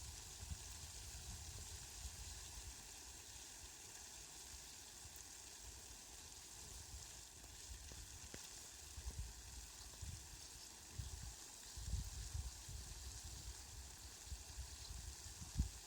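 Steady hiss of falling rain, with irregular low rumbles underneath that come more often in the second half.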